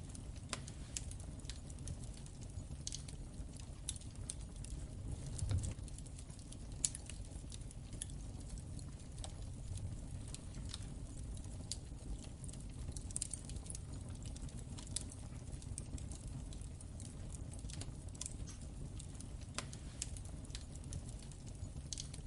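Wood fire burning in a fireplace: a steady low rumble with irregular sharp crackles and pops, one slightly stronger low puff about five seconds in.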